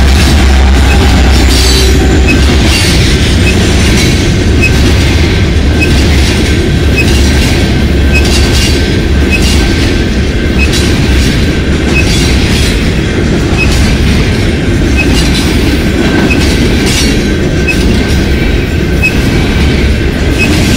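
Freight train passing close by: the trailing SD70ACE locomotive's diesel engine fades out in the first couple of seconds, leaving the tank cars and boxcars rolling past with a heavy rumble. Wheels clack over rail joints in a steady rhythm of roughly one a second, over a thin, steady wheel squeal.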